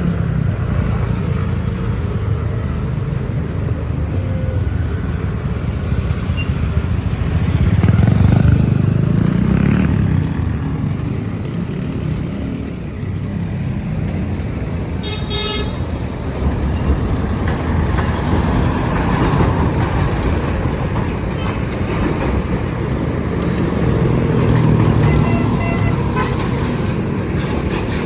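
Heavy container trucks running and passing, a steady low diesel rumble that swells twice, with one short horn toot about halfway through.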